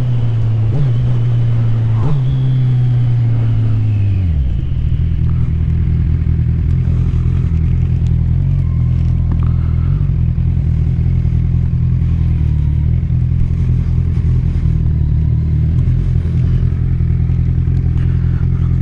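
2015 Kawasaki Z1000's inline-four engine with Akrapovič silencers, under way: the engine note falls about four seconds in as the revs drop, then runs on at a steady lower pitch.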